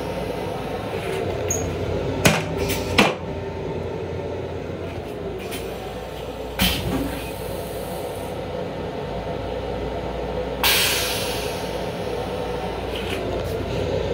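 Steady low rumble of a Long Island Rail Road M7 electric railcar running, heard inside its small restroom, with a few sharp knocks and rattles. About eleven seconds in, a short rushing hiss rises and fades.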